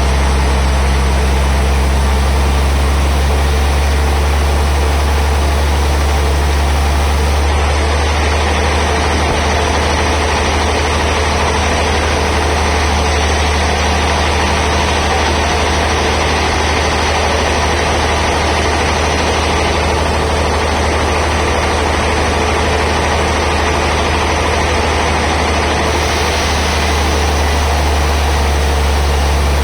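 Sawmill band saw machinery running steadily: a strong deep engine-like hum under a wide noisy hiss. The higher part of the noise drops away about seven seconds in and comes back a few seconds before the end.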